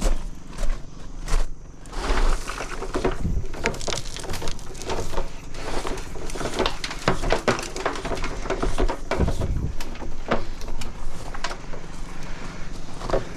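An engine running steadily under a dense run of irregular knocks, scrapes and clatter.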